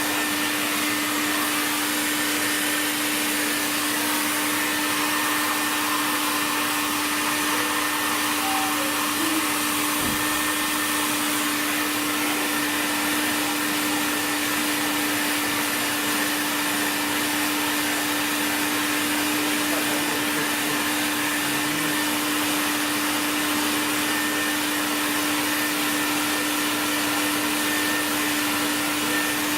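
An electric blower motor running steadily, a constant whirring hiss with a steady hum under it.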